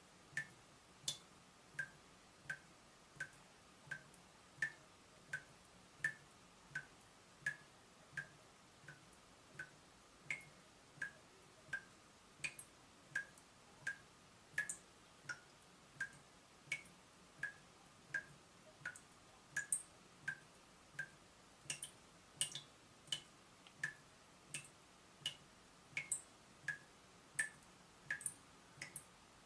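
Water dripping from a leaking tap: a steady, evenly spaced drip, about three drops every two seconds, each drop a short plink.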